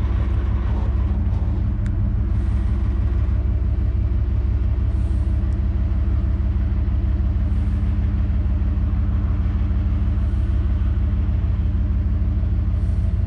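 Pickup truck engine running steadily at a low, even speed with a constant low rumble while the truck creeps back toward a fifth-wheel hitch.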